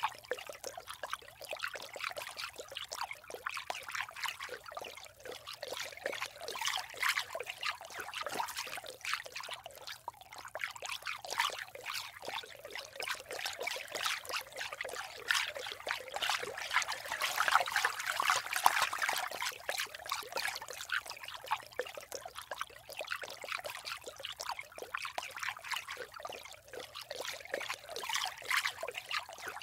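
Water trickling, a dense irregular patter of small splashes that swells for a couple of seconds past the middle.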